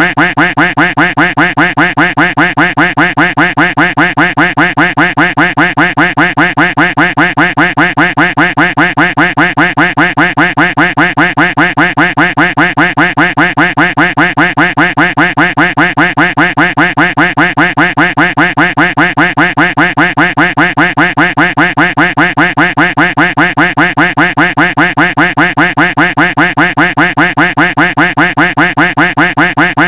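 Duck quack sound effect looped without a break: rapid, evenly spaced quacks, several a second, at an even loud level.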